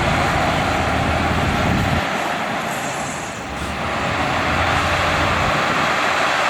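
Heavy diesel earthmoving machinery running, a steady engine drone over loud noise; the deep rumble drops away about two seconds in and partly comes back near the end.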